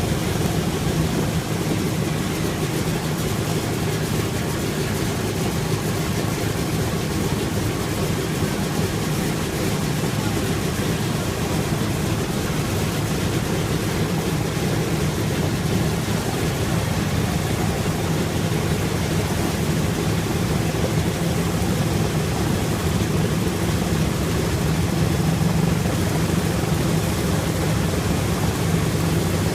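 Boeing B-17 bomber's radial piston engines running steadily after startup, a deep even drone that swells slightly a little before the end.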